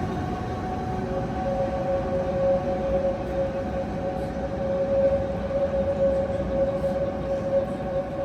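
Tatra tram running on the track, with a steady whine that sets in about a second in and holds.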